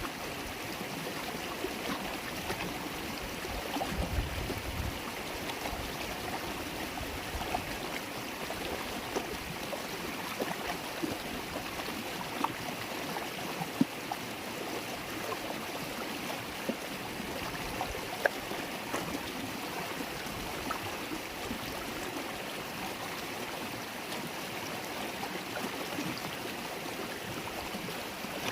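River water babbling steadily, with many small splashes and a few sharper plips. A brief low rumble comes about four seconds in.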